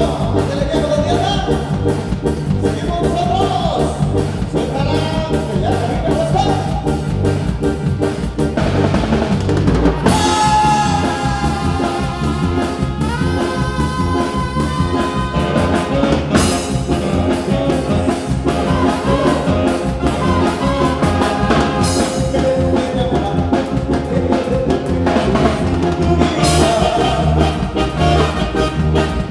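Band music with a drum kit keeping a steady beat under sustained melodic instruments; no words are sung clearly.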